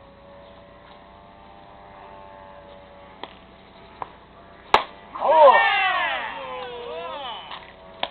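A single sharp crack, then several men shouting at once for a couple of seconds.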